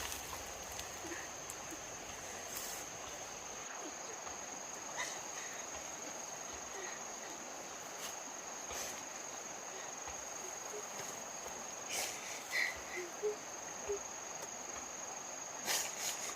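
Steady high-pitched trilling of insects, with a few scattered clicks and brief faint chirps in the second half.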